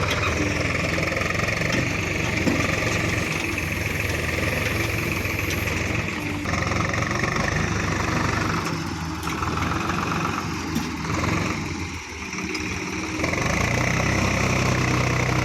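Diesel engine of heavy farm or earthmoving machinery running steadily, dipping briefly about twelve seconds in and then running louder and deeper from about a second later.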